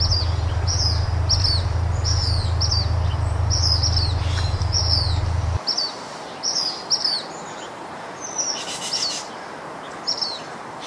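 Small birds chirping: short, high, falling chirps repeated about twice a second, over a steady low hum that cuts off suddenly about five and a half seconds in.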